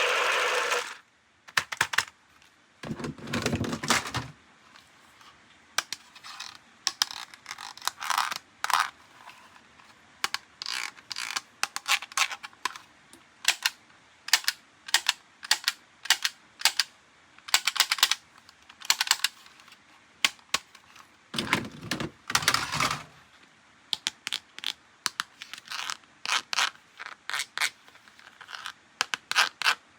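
Toy unboxing handling: a run of short clicks, taps and crinkles from plastic and cardboard packaging, with two longer, fuller rustles, one a few seconds in and one about two-thirds through. A siren-like electronic tone stops about a second in.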